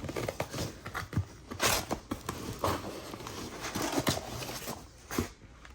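A camshaft's shipping package being handled and opened: scattered, irregular knocks, taps and scrapes with some rustling of the packing.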